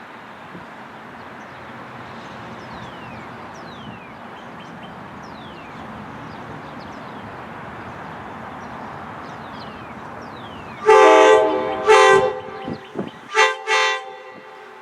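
Locomotive multi-chime air horn sounding four blasts about 11 seconds in, over a steady background rumble.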